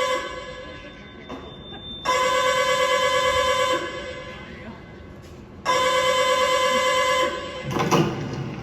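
A telephone ringing tone played over loudspeakers: two full rings, each about a second and a half long and about three and a half seconds apart. A short, lower sound comes in near the end.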